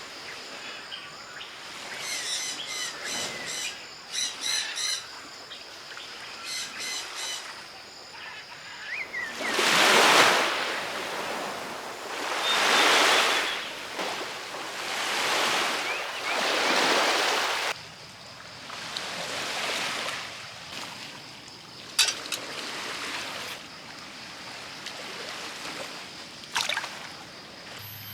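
Small sea waves washing onto the shore, four swells about every two and a half seconds in the middle. Earlier, birds call in quick repeated chirps. Two sharp clicks come near the end, over a steady faint high tone.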